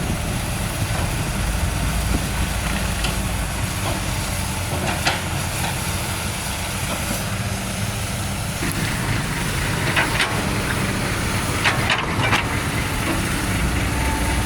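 Heavy diesel truck engine running at low revs, a steady low rumble, with a few short clicks over it in the second half.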